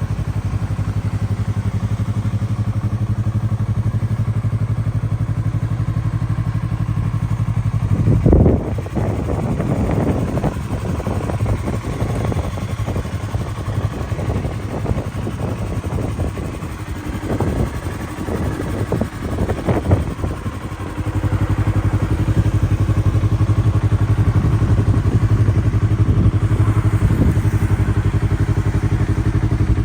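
Yamaha R3's 321 cc parallel-twin engine running at idle. About eight seconds in the sound turns uneven and choppy for roughly thirteen seconds, then settles back to a steady idle.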